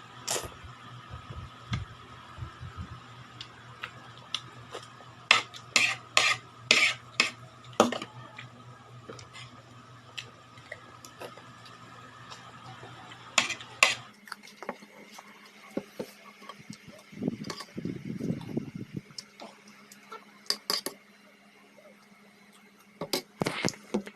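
A spoon clinking and scraping against a bowl in sharp, scattered strikes, clustered in quick runs, while mung beans are eaten, over a low steady hum that stops about 14 seconds in.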